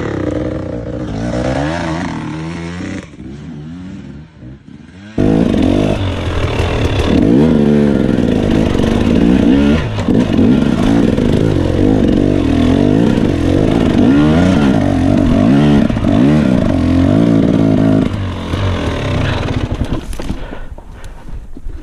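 Dirt bike engine revving up and down through the gears while riding a trail. It eases off about three to five seconds in, comes back suddenly loud, and drops off again near the end.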